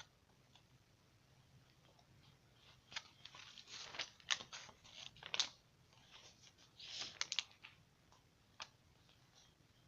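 Paperback book pages being flipped and handled: a run of paper rustles and soft clicks from about three to seven and a half seconds in, with one more click near nine seconds.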